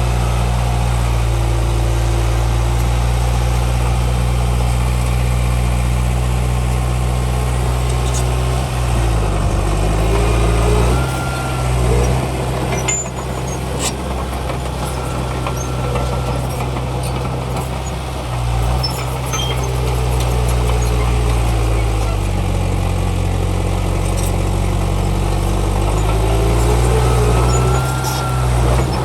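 Heavy diesel engine of earthmoving machinery running steadily, its note shifting twice as it works, with a few light clicks in the middle.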